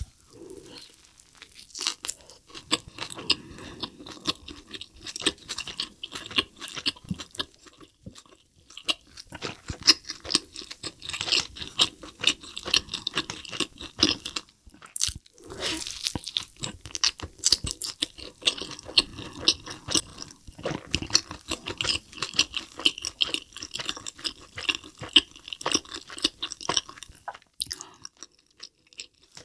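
Close-miked biting and chewing of a double cheeseburger: a steady, uneven run of small wet smacks and clicks from the mouth as the soft bun and patty are chewed.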